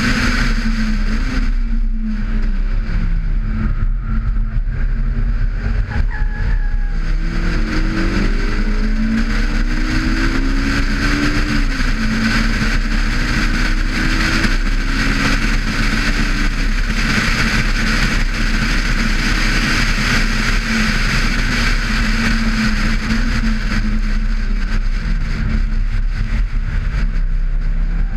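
Honda S2000 AP1's 2.0-litre four-cylinder engine driven hard on track, revs climbing through the gears, dropping at shifts and under braking, then climbing again. A steady rush of wind noise on the outside-mounted camera lies under it.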